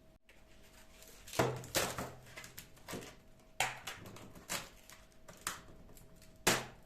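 A series of sharp knocks and clicks, about eight, from household objects being handled and set down, the loudest a little over a second in and near the end.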